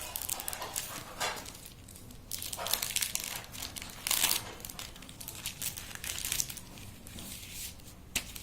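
Takeaway food packaging crinkling and rustling in irregular bursts as it is handled and opened.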